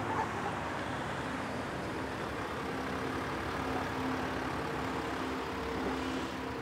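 Parked SUV's engine idling, a steady low noise.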